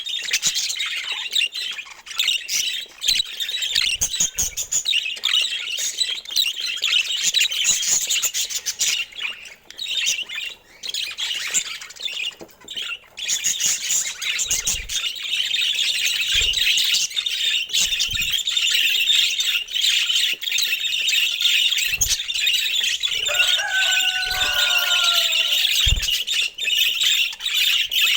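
A flock of budgerigars chattering and warbling without pause. About two-thirds of the way through comes a lower, gliding two-part call, and there are a few soft low thumps in the second half.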